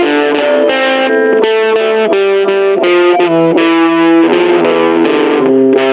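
Electric guitar played through a small battery-powered Junkbox Death Metal Droid amp with fuzz distortion: a run of single picked notes, each changing about every half second and ringing on.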